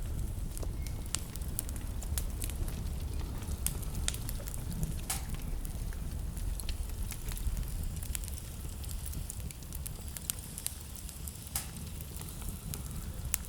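Wood burning in a fireplace, crackling with irregular sharp pops over a steady low rumble.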